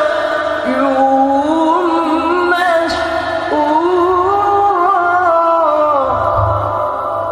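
A male qari reciting the Quran in melodic tajwid style, drawing out one long ornamented vowel that steps up and down in pitch. The voice breaks off about six seconds in and its tones die away.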